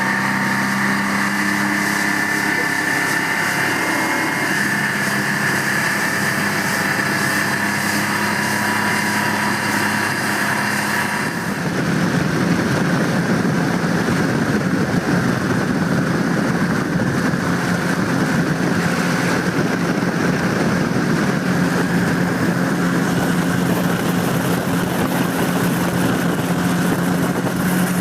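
Yamaha V MAX SHO 150 V6 four-stroke outboard running steadily, driving an aluminum bass boat. About eleven seconds in, the engine note settles slightly lower and a louder rushing noise fills in with it.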